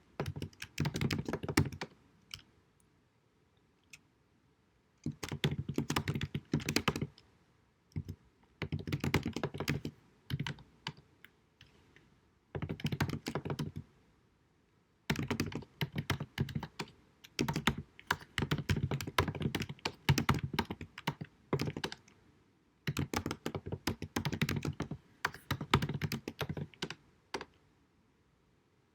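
Typing on a computer keyboard: runs of rapid keystrokes a few seconds long, broken by short pauses, in low-quality sound.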